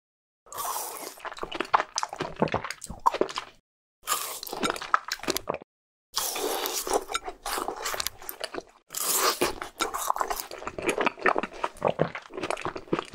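Crunchy biting and chewing of a frozen ice pop, dubbed in as eating-ASMR sound. It comes in four long spells of dense crunching with brief silent gaps between them.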